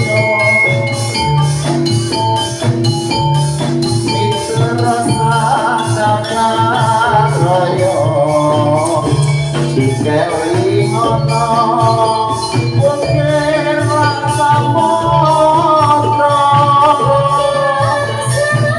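Live campursari band music played loud through a PA sound system: a steady beat with pulsing bass, rattling percussion and a wavering melody line.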